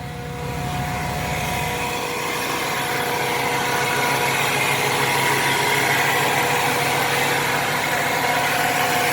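A 5.7 L 350 Vortec V8 idling steadily, with the steady whine of a noisy fuel pump over it.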